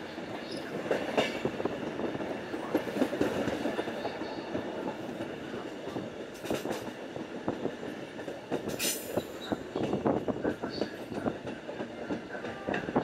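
Passenger train running along the track: a steady rumbling rattle full of irregular clicks from the wheels on the rails. A few brief high wheel squeals come through, with a short high hiss about nine seconds in.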